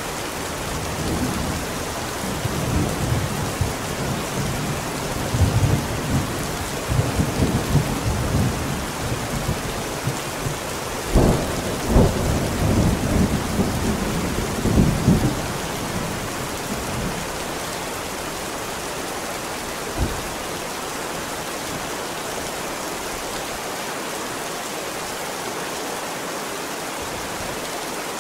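Steady heavy rain with a long rolling thunderclap that rumbles and crackles for most of the first half, loudest around the middle, then one short sharp crack of thunder a few seconds later while the rain continues.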